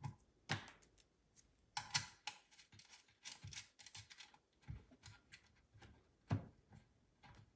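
Irregular small clicks and rattles of cable plugs and connectors being handled and pushed into the back of an Android car head unit, with a louder click about two seconds in and another near the end.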